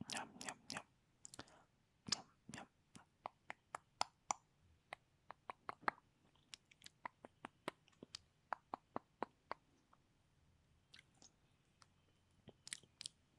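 Close-miked mouth sounds: a run of short, sharp, wet tongue and lip clicks, a few a second, pausing for a couple of seconds about ten seconds in before starting again.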